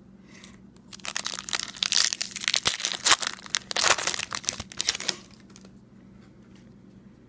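A 2018 Bowman baseball card pack's wrapper being torn open and crinkled: a dense crackling that starts about a second in, lasts about four seconds and then stops.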